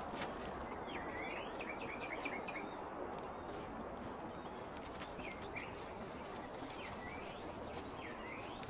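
Small birds giving short, upswept chirps in scattered bouts over a steady rushing background noise.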